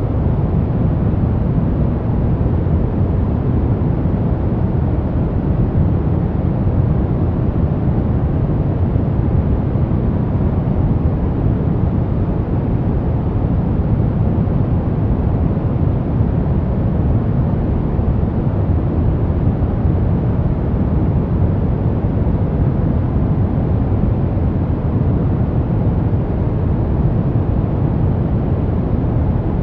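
Continuous synthesized noise, sold as white noise but weighted toward the low end, so it is heard as a deep, even rush with little hiss. It is perfectly steady, with no change in level or pattern.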